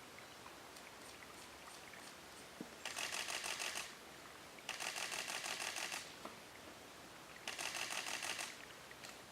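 Camera shutter firing in rapid continuous bursts: three runs of fast, even clicks of about a second each, over faint background hiss.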